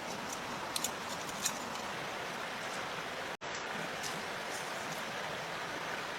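Steady rushing of flowing water, with a few faint light ticks in the first second and a half. The sound drops out for an instant about three and a half seconds in.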